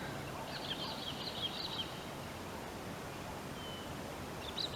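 Birds chirping over a steady outdoor background hiss: a quick run of high chirps in the first couple of seconds, then a single short high note later on.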